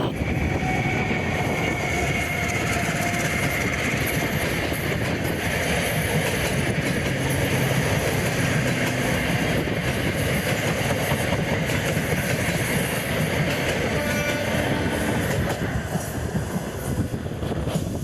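A train running past at close range: a steady rumble with the wheels clattering over the rails.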